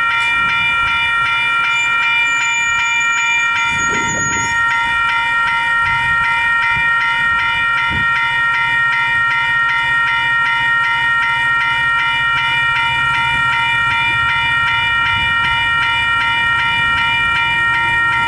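Western Cullen Hayes electronic level-crossing bells (E-bells) ringing continuously at their fast rate, a steady multi-toned ring, with the low rumble of an approaching train building underneath toward the end.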